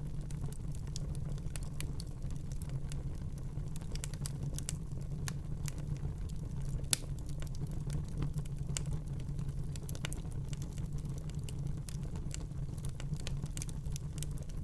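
Wood fire burning in a fireplace: a steady low rumble of flames with many irregular sharp crackles and pops, one louder pop about seven seconds in.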